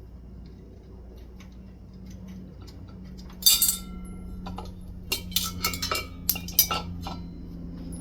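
Small metal parts, screws and fan mounting hardware, clinking and clattering as they are handled, with a loud clatter about three and a half seconds in and a run of ringing clinks a couple of seconds later, over a low steady hum.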